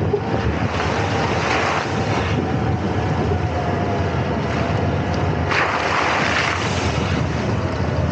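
Wind buffeting the microphone over a steady low rumble, with louder gusts of hiss about a second in and again about five and a half seconds in.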